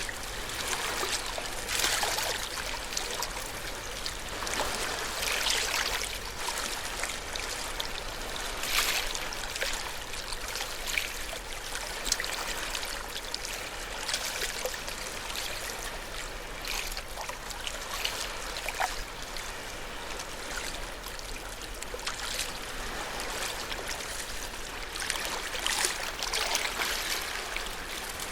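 Small ocean waves washing and splashing at the shore in a steady hiss of water, with brief louder splashes every few seconds at irregular intervals.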